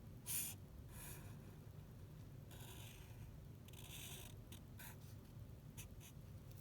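Drawing strokes scratching on paper: a sharp stroke about half a second in, longer strokes around three and four seconds, then a few quick short ticks, over a low steady hum.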